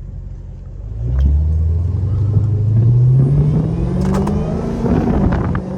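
Straight-piped Dodge Challenger Hellcat's supercharged V8 idling, then accelerating hard about a second in: a loud exhaust note climbing steadily in pitch for several seconds before easing off near the end.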